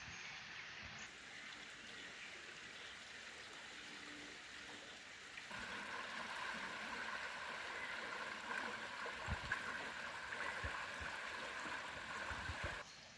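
Running water of a stream, a steady rushing that grows louder about halfway through, with a few low thumps near the end before it cuts off suddenly.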